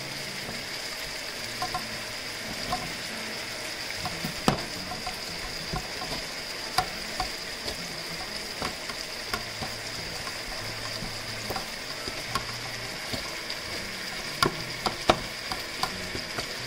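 Onions, green beans and peppers sizzling in a pan, a steady hiss with scattered sharp crackles and taps throughout.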